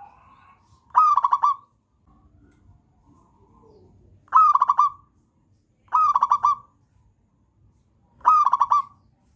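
Zebra dove (perkutut) singing: four short cooing phrases a couple of seconds apart, each a quick run of clipped notes that starts with a rising note.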